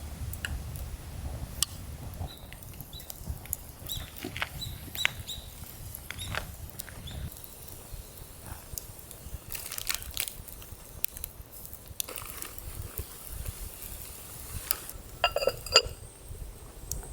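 Scattered light clicks and knocks of camping gear being handled. A ringing metallic clink comes about fifteen seconds in.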